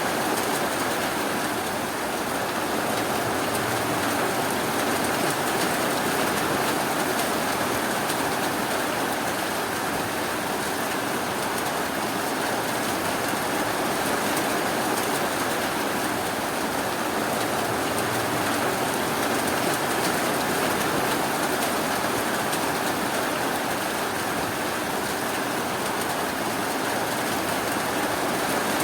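Steady rainfall, an even hiss of rain with no thunder or other sounds.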